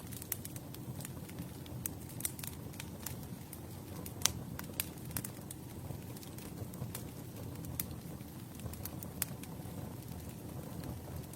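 Campfire burning: irregular sharp crackles and pops, one louder pop about four seconds in, over a low steady rumble of the flames.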